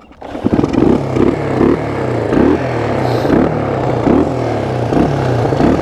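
1974 Honda XL175's single-cylinder four-stroke engine revving in a string of short surges, picking up just after the start, as the bike is ridden through deep snow.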